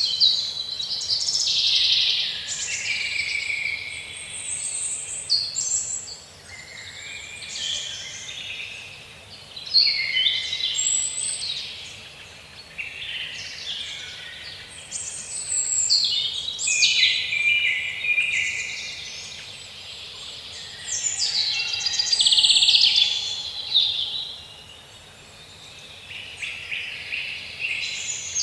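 A chorus of many birds singing and calling at once, with overlapping chirps and trills that come in swelling waves every few seconds.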